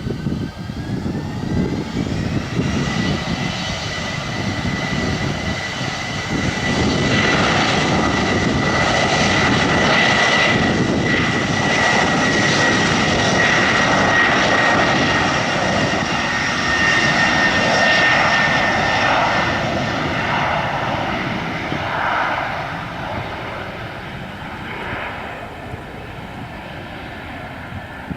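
Airplane engines passing: a high whine rises in pitch over the first few seconds, then holds steady. The sound grows loudest about midway and fades toward the end.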